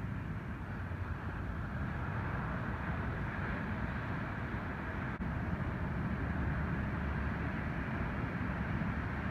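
Steady roar of ocean surf from an incoming typhoon swell, with wind rumbling on the microphone underneath.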